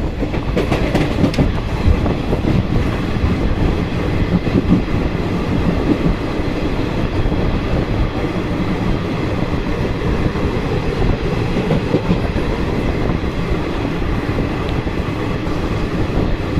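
Intercity Express passenger train running at speed, heard from on board: a steady, loud rumble of wheels on track with a clickety-clack of rail joints.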